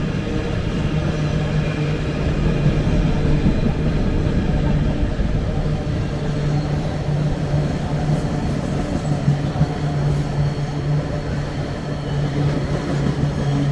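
Class 88 electro-diesel locomotive 88006 passing through with its train: a steady low hum over a continuous rumble.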